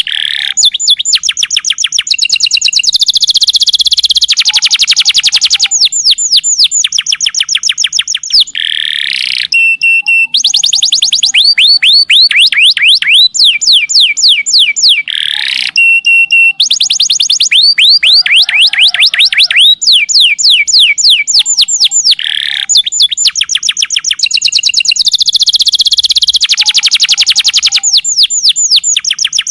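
Domestic canary singing a long, loud song of rapid-fire trills: fast runs of repeated falling notes and dense rolls, broken by brief pauses between phrases.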